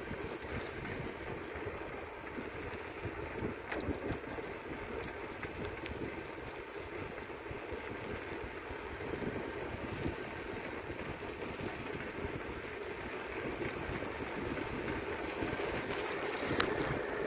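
Steady wind and rolling noise from a moving bicycle, with a few brief clicks or knocks, the sharpest one near the end.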